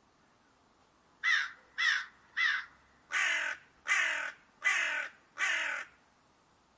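A crow-family bird cawing seven times: three short caws, then four longer, harsher caws, each falling slightly in pitch.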